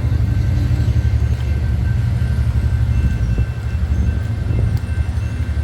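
Strong wind buffeting the microphone: a loud, low, fluttering rumble.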